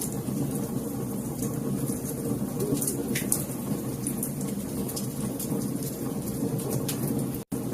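Wood fire crackling and popping: scattered sharp snaps over a steady low rumble of burning logs, with a very brief dropout near the end.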